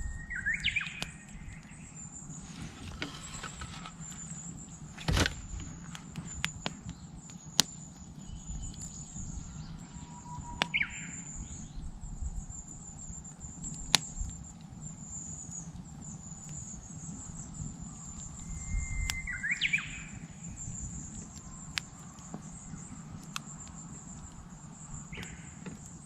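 Japanese bush warbler singing its "hoo-hokekyo" song twice, a held whistled note breaking into a quick flourish, near the start and again about three quarters through. A campfire crackles underneath with sharp pops, one loud pop about a fifth of the way in, over a steady high chirring.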